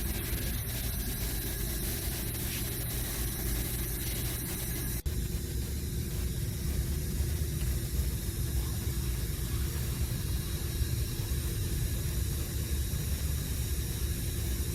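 Engine of a 2021 Chevrolet Tahoe / GMC Yukon running steadily with a hiss over a low drone; this is the engine being checked for a misfire code and a ticking noise.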